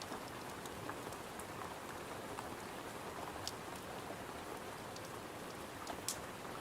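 Steady rain pattering on a window, with scattered sharp pops from a crackling wood fire, one near the middle and a louder one near the end.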